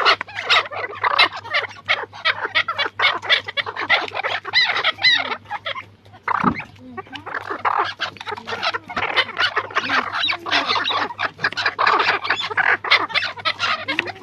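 A flock of partridges calling together: a dense, continuous chatter of short, rapid clucking calls, easing briefly about six seconds in.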